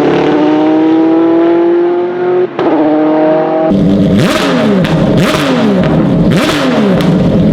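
Performance car engines revving hard, heard in short back-to-back clips: first a long, slowly rising rev, then after two quick changes a series of rev blips whose pitch falls and rises again about once a second.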